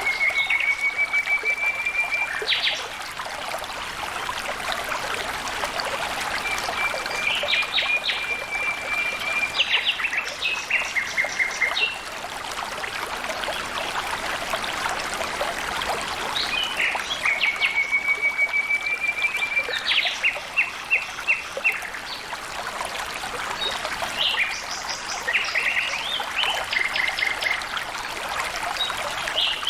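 A steadily flowing stream trickling, with a songbird singing the same phrase about four times: a fast, even trill held on one pitch for about two seconds, then a quick run of higher notes.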